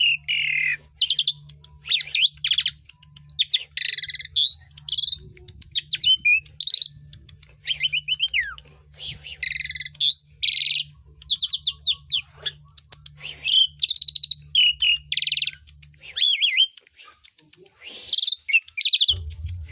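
Jalak suren (pied starling) singing a loud, varied song of whistled notes and rapid chattering phrases, each about a second long with short gaps. A low hum underneath stops about three-quarters of the way through.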